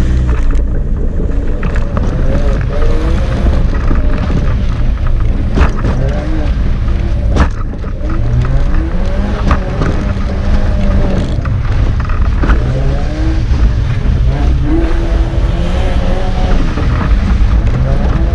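First-generation MINI hatchback's engine heard from inside the cabin, revving up and dropping again and again as the car is driven hard through a tight autotest course. A few sharp knocks come through in the middle.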